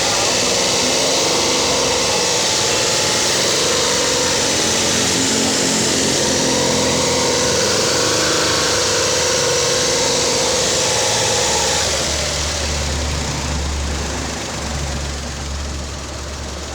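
An engine running steadily at a raised speed, then settling down to a slower, lower idle about twelve seconds in.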